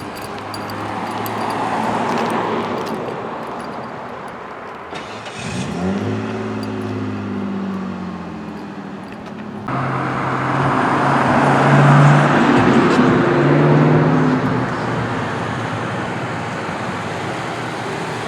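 Pickup truck engine driving with road noise while towing a travel trailer; the engine pitch rises as it accelerates about five seconds in, and the sound changes abruptly to a louder, steadier engine and tyre noise about ten seconds in.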